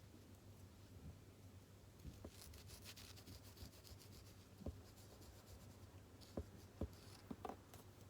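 Pen writing on paper, a faint run of quick scratchy strokes about two to three seconds in, then a few soft knocks of the pen or small items against the desk. A low steady hum sits underneath.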